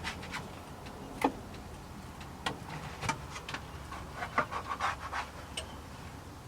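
French toast frying in a pan: scattered crackles and light clicks, one sharper click about a second in and a flurry of them in the middle, over a faint steady low hum.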